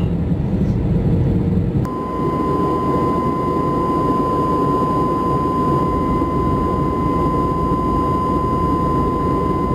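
Jet airliner cabin noise from a window seat: a steady rush of engine and airflow. About two seconds in it cuts to another flight's cabin noise that carries a steady high whine.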